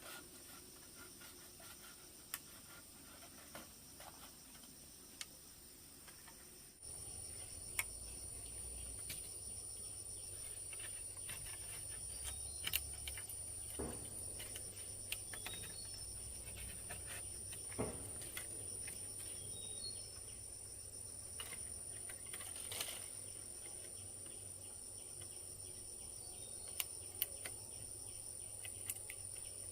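Outdoor country ambience: a steady high insect-like drone with a few faint bird chirps, broken by scattered light taps and knocks. About seven seconds in, a low rumble comes up and stays.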